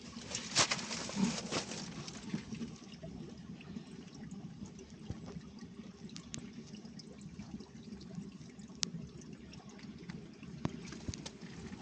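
Water trickling steadily, with scattered small clicks and taps, more of them in the first couple of seconds.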